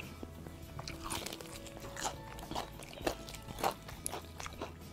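Biting into and chewing crispy KFC fried chicken close to the microphone: a string of irregular crunches from the breaded crust, the loudest around the middle.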